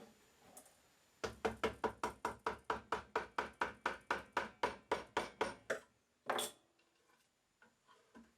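Wood chisel being struck in a quick, even run of light knocks, about five a second for some four seconds, as it cuts a 45-degree spline recess into the mitered corner of a wooden box. One louder, scraping stroke follows near the end.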